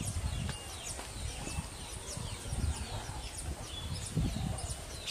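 Weaver birds chattering at their hanging nests: a busy stream of short, high chirps and quick downward-sweeping calls over a low rumble.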